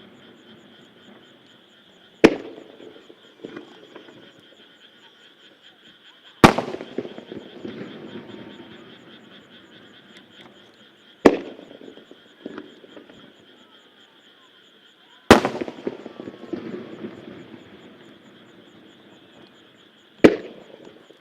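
Aerial firework shells bursting one at a time: five loud bangs about four to five seconds apart, each followed by a rolling, crackling tail that dies away.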